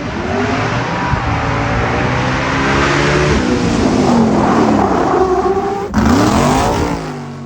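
Several motor engines revving hard, their pitch rising and falling and overlapping, over a loud rushing noise, with a brief break about six seconds in.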